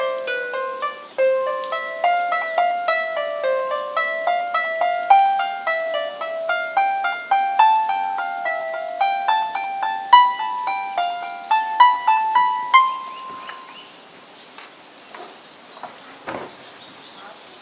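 Twelve-string diatonic heart-shaped lyre being plucked, a melody of single notes several a second. The playing stops about thirteen seconds in and the last note rings away, leaving a faint steady high tone in the background.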